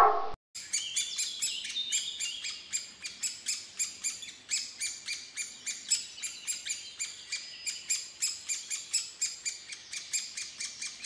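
Great spotted woodpecker nestlings begging from the nest hole: a fast, unbroken run of short high chirps, about four or five a second, starting about half a second in.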